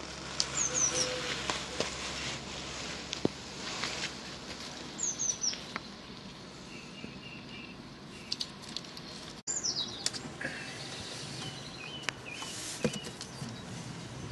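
Wild birds chirping: short runs of quick falling chirps, heard three or four times, and a few lower warbling trills, over steady outdoor background noise with scattered light taps.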